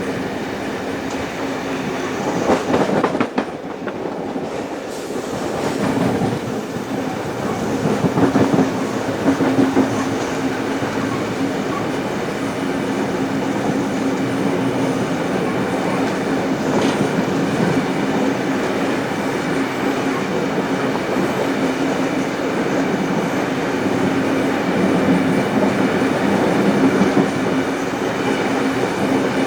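Heritage passenger train hauled by steam locomotive 3801 running along the line: a steady rolling rumble of carriage wheels on the rails with a constant low hum, swelling briefly a few seconds in.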